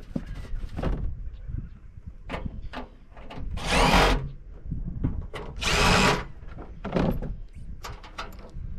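A power drill/driver runs in two bursts of a bit under a second each, its motor pitch gliding as it spins, while backing screws out of the rooftop AC unit's plastic shroud. Knocks and clatter of handling come between the bursts.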